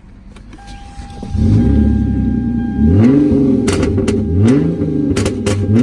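Straight-piped 3.8-litre V6 of a Hyundai Genesis Coupe accelerating hard, starting about a second and a half in. Its pitch climbs in three short rising sweeps as it pulls through the gears. Several sharp cracks from the exhaust come in the second half.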